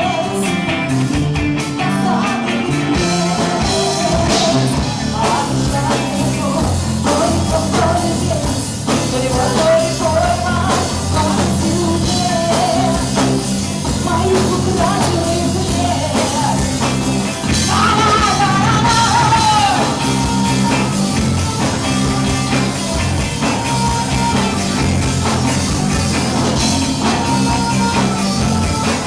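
A song with singing over an instrumental backing with a steady beat.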